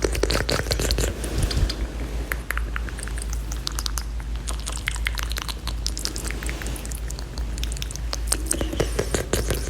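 ASMR mouth sounds made close to the microphone: fast, wet clicking, popping and smacking of the tongue and lips, dense and irregular, over a steady low hum.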